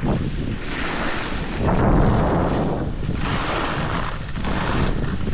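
Wind rushing over the microphone and skis hissing and scraping over snow during a downhill ski run, swelling and easing about once a second.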